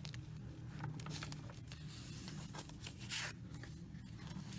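Paper pages of a handmade junk journal being handled and turned: irregular faint rustling and sliding of paper, with a louder swish about three seconds in.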